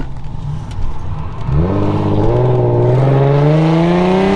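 Infiniti G37x's V6 with its muffler and resonator deleted, floored about a second and a half in. The exhaust note climbs steadily in pitch as the car accelerates hard.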